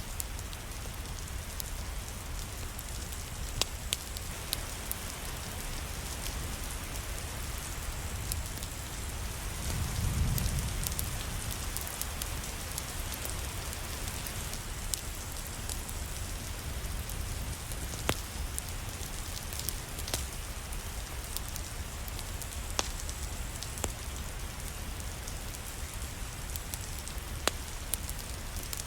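Steady rain falling on a surface, a continuous even patter with scattered sharp ticks. A brief low rumble swells about a third of the way through.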